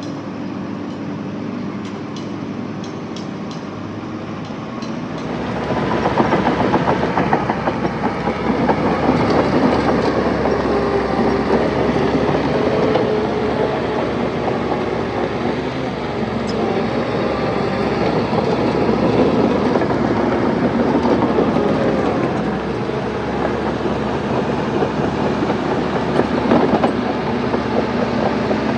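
Heavy diesel earthmoving machinery running, with a steady engine note at first, then much louder from about five seconds in, with a dense rattling clatter.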